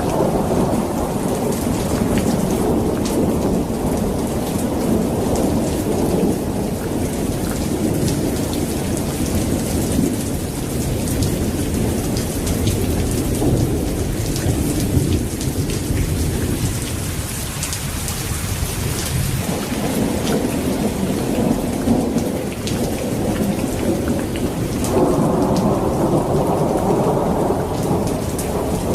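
Heavy rain falling, with a dense low rumble underneath and scattered drops ticking on surfaces.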